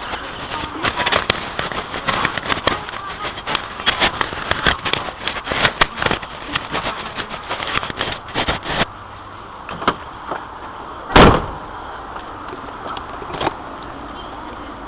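A clatter of sharp knocks and clicks for the first nine seconds or so, then a few scattered knocks and one loud thump about eleven seconds in.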